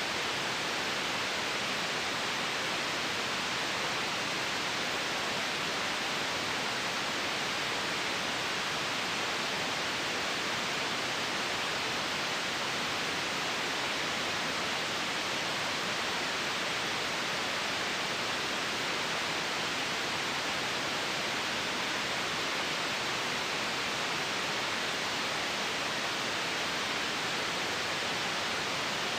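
Steady white noise: an even, unchanging hiss with most of its weight in the upper middle, with no rhythm or events in it.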